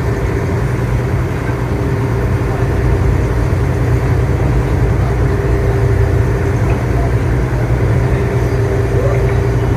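A ferry's engine running steadily as the boat gets under way: a deep, even drone with a steady hum above it.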